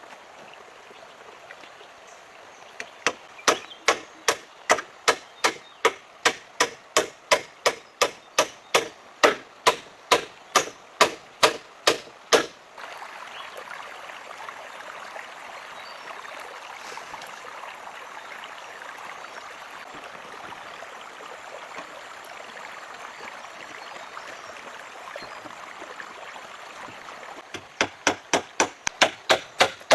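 A hand tool striking wood in a steady rhythm, about three blows a second. The blows stop partway through, leaving a steady rush like flowing water, then resume near the end.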